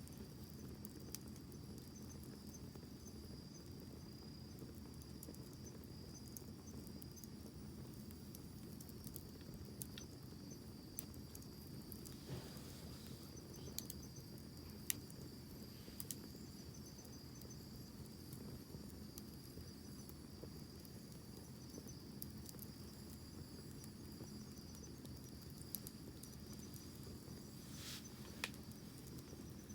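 Wood campfire crackling quietly with scattered sharp pops, one louder pop about halfway through, over a steady high trill of crickets.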